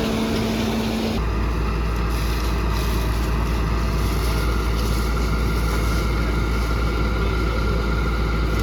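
John Deere 6600 combine running steadily under load with a heavy deep drone. The sound changes abruptly about a second in, and a steady high whine joins a few seconds later.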